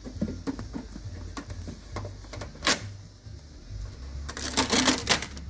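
Hard clicks and rattles of small door parts being handled and pressed back into place, with one sharp click a little before the midpoint and a dense clatter near the end.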